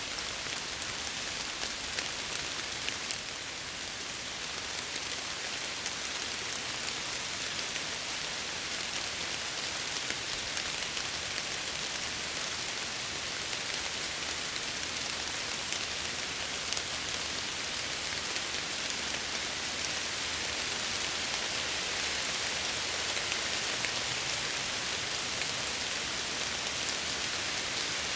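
Steady heavy rain pattering against window glass, with scattered individual drop taps.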